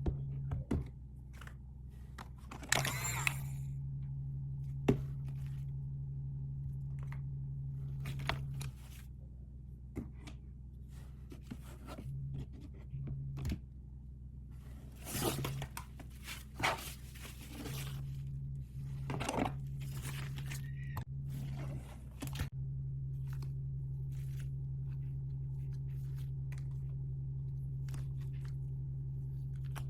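Packaging being opened by hand: crinkly tearing of wrapping in a few short bursts, with scattered taps, clicks and scrapes. A low steady hum drops out and returns several times.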